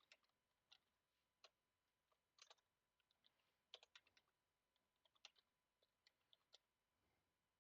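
Faint computer keyboard typing: scattered, irregular key clicks, some in quick clusters of two or three, with gaps of up to a second between them.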